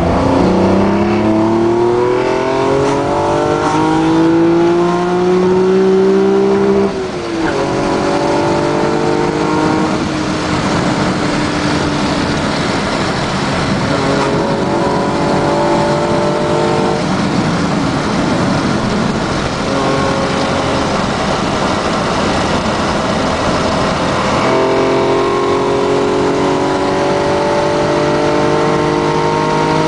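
Nissan Skyline R34 GT-V's RB25DE 2.5-litre straight-six, fitted with six individual throttle bodies, pulling hard as the car accelerates. The engine note climbs in long rising pulls, and the pitch drops at each gear change: about 7 seconds in, and again near 10, 17 and 25 seconds.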